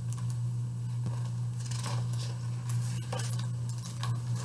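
A steady low hum with faint rustles and soft clicks from a picture book's pages being handled and turned.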